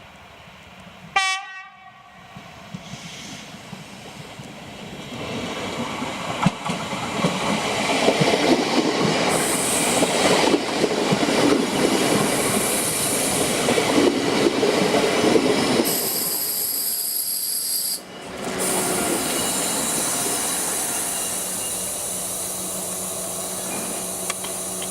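A short train horn blast about a second in, then a train approaching and running past, its wheels and running gear growing into a loud clattering rumble. The sound breaks off abruptly and resumes as a steadier rush.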